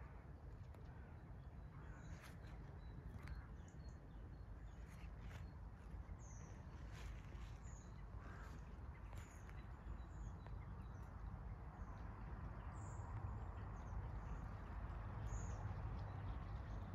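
Wild birds calling here and there in short, high chirps over a steady low rumble of outdoor background noise.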